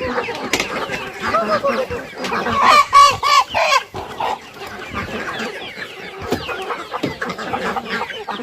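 Chickens clucking in a flock, many overlapping short calls. One bird gives a loud run of about five rapid calls about three seconds in.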